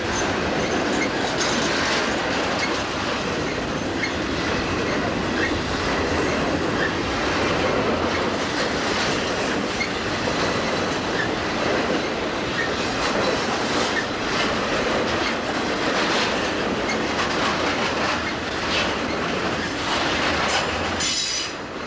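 Cars of a Santa Fe piggyback freight train rolling past close by: a steady rumble of steel wheels on rail, with repeated clacks as the wheels cross rail joints.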